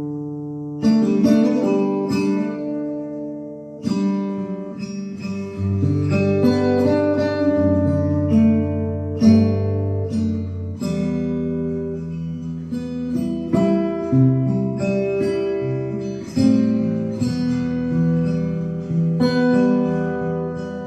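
Solo acoustic guitar playing an instrumental piece in fingerstyle, plucked melody notes over a moving bass line.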